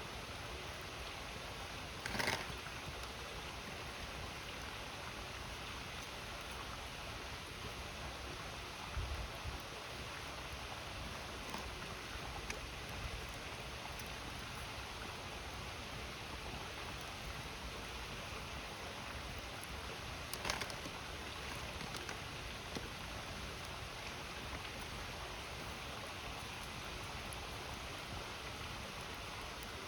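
River running with a steady rush beside a crackling wood campfire. Two louder snaps stand out, about two seconds in and about twenty seconds in, and a soft low thump comes near nine seconds.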